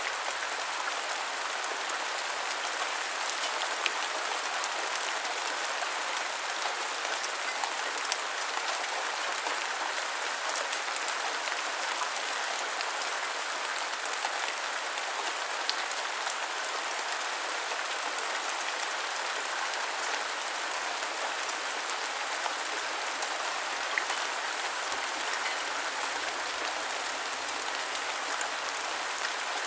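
Steady rain falling and pattering on a surface, with the occasional sharper drop tick.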